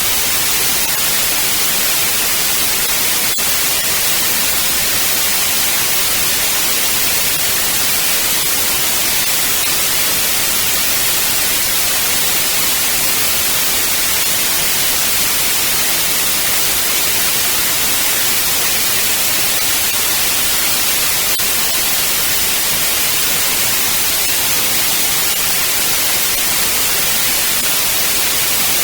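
White noise test signal: a loud, steady, even hiss spread across the whole frequency range, unchanging throughout.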